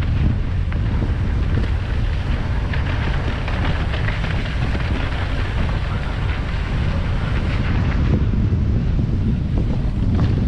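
Wind buffeting the microphone on a moving mountain bike: a steady, loud rushing rumble, with brief sharp clicks and rattles scattered through it.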